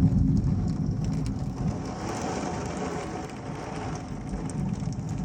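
Heavy rain pouring down during a thunderstorm, with a low rumble that is loudest at the start and slowly eases off.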